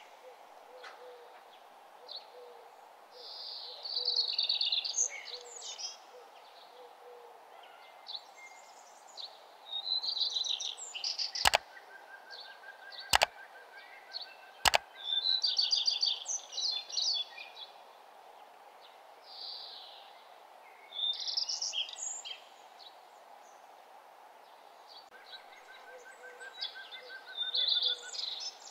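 Birds chirping and singing in repeated short bursts of quick high notes. Three sharp clicks a second or two apart come around the middle, over a steady faint hum.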